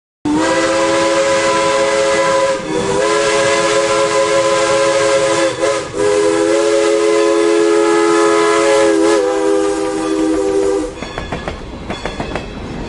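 A multi-chime train horn sounds a chord of several steady notes in four blasts, three long and a shorter last one, dipping briefly between them. It then stops, leaving a fainter run of rattling clicks and rumble.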